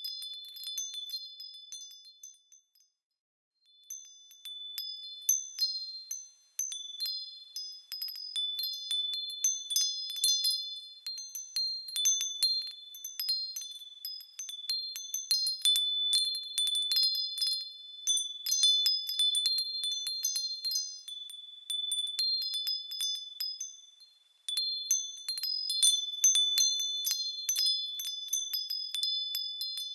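Small high-pitched metal bells tinkling as they swing, with several clear ringing tones struck over and over at random. The ringing fades out about two and a half seconds in and starts again about a second later.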